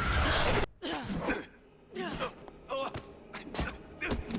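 Animated hand-to-hand fight sound effects. A loud rushing blast cuts off sharply under a second in, followed by short grunts and gasps of effort mixed with quick hits and blocks.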